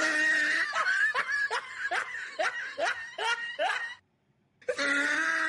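Laughter: a run of short rising 'ha' strokes, about three a second. It cuts off abruptly about four seconds in and starts again shortly after.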